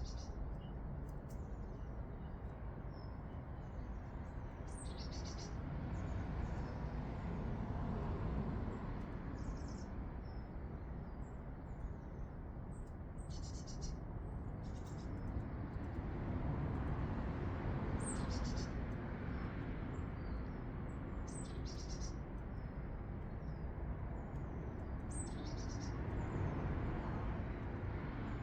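Small garden birds giving short, high chirps every few seconds, often two in quick succession, over a steady low rumble of background noise.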